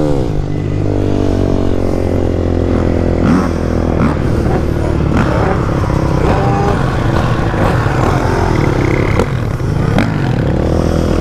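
A motorcycle engine's revs drop sharply at the start. Motorcycle engines then run steadily, several engine notes overlapping, with a few sharp clacks.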